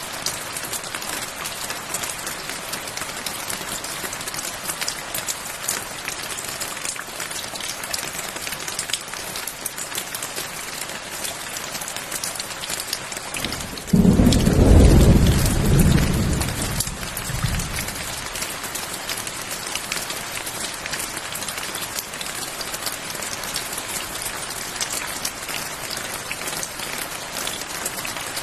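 Steady rain falling, with a loud clap of thunder that starts suddenly about halfway through and fades away over about four seconds.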